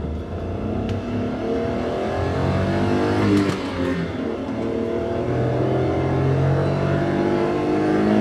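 Daihatsu Hijet kei van's 660 cc three-cylinder engine, with stock intake and exhaust, pulling under acceleration: its pitch rises, drops about three seconds in as it shifts up a gear, then climbs again through the next gear.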